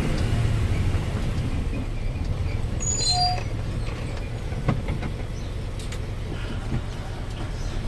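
Isuzu Giga 6x4 dump truck's diesel engine pulling up a steep hill, a steady low rumble under load with a few sharp clicks and a brief high squeak about three seconds in.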